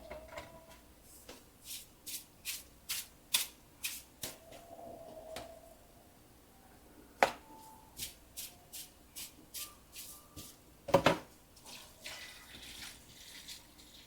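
Kitchen utensils clicking and tapping against cookware in quick light strokes, with two louder knocks, about seven and eleven seconds in.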